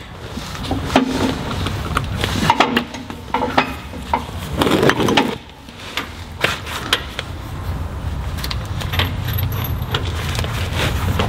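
Metal tools and sockets clinking and rattling as they are handled at a tractor's stuck drain plug. A steady low hum runs underneath from about halfway through.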